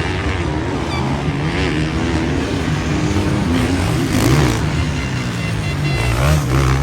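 Several motocross bike engines revving on the track at once, their pitch rising and falling as the riders work the throttle.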